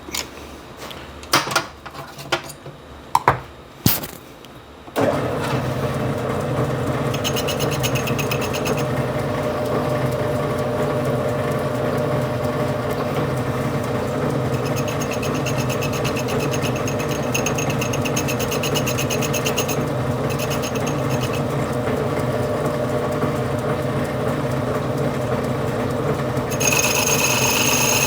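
A few sharp clicks and knocks, then a metal lathe starts about five seconds in and runs steadily while facing material off a transmission's high-gear clutch piston. A high ringing comes and goes over the motor hum, and the sound gets louder near the end.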